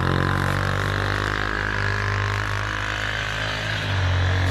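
Off-road vehicle engine idling steadily, its pitch rising slightly near the end.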